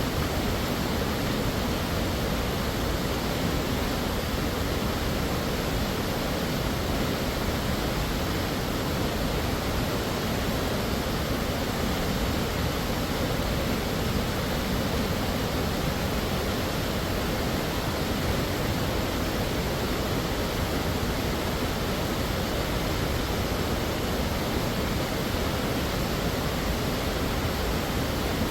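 Waterfall: a steady, unbroken rush of falling water, from a deep rumble up to a hiss, with no changes or separate sounds.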